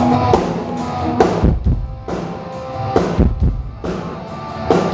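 Live band playing a slow drum-kit beat, with deep kick-drum hits under guitar, an 80s-style groove.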